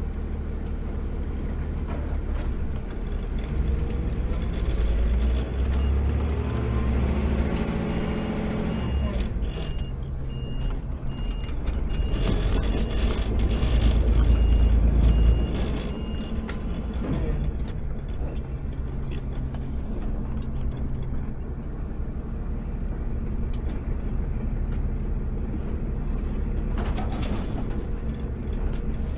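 Automated side-load garbage truck working: the engine revs up and holds high for several seconds, then settles back, while a repeating beep sounds about twice a second. A short hiss comes near the end.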